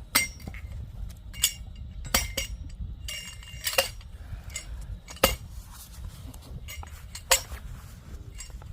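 Metal-on-metal strikes of a hammer on the back of an axe head stuck in a tough oak log, about seven sharp clinks at uneven intervals, each ringing briefly. The oak is not splitting.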